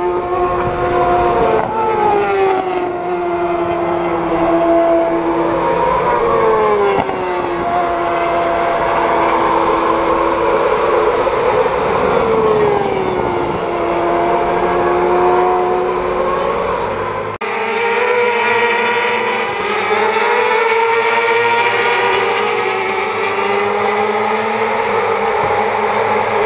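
Four-cylinder supersport motorcycles racing on a circuit, several shrill engines at high revs whose notes drop and climb in pitch as the bikes go through gears and pass by. The sound changes abruptly about two-thirds of the way through.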